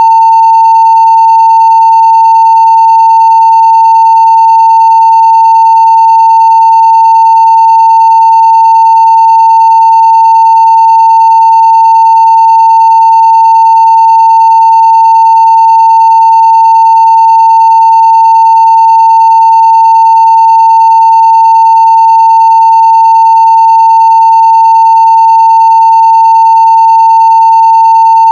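A continuous 900 Hz sine-wave test tone at full scale (0 dB), one unchanging pitch, with faint higher overtones.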